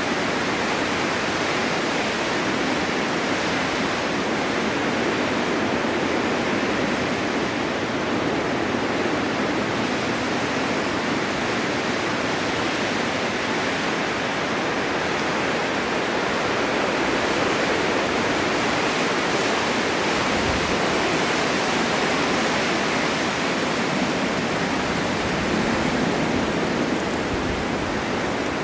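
Snowstorm wind blowing steadily, a continuous even rushing hiss with no distinct gusts.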